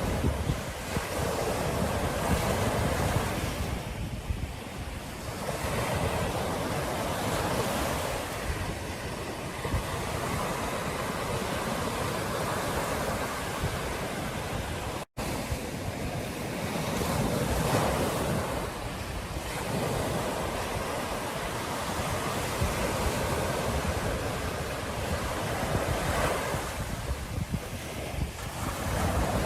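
Ocean surf breaking and washing ashore in repeated swells, with wind buffeting the microphone. The sound cuts out for an instant about halfway through.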